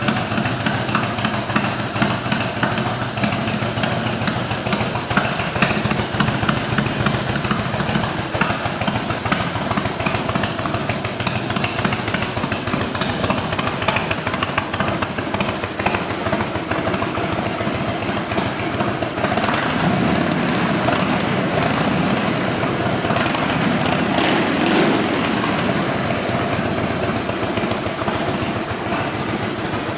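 Harley-Davidson 2000 Road King's Twin Cam 88 V-twin engine running steadily, with a dense, even pulsing exhaust beat.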